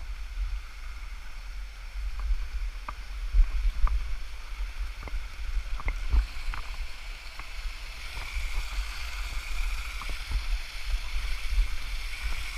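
Small waterfall's rushing water as a steady hiss that grows stronger about two-thirds of the way through, over a low rumble and scattered short knocks close to the microphone.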